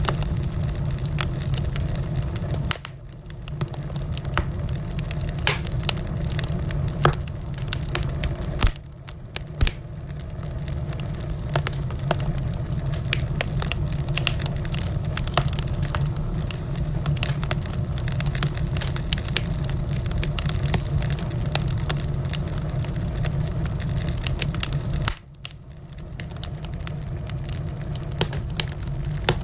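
Wood fire in a fireplace crackling, with frequent sharp pops and snaps over a low steady rumble. The sound dips briefly three times, about 3, 9 and 25 seconds in, then returns.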